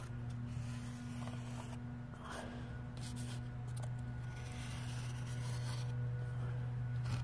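Faint scratching and scraping against a surface, like hand work while marking out, over a steady low hum.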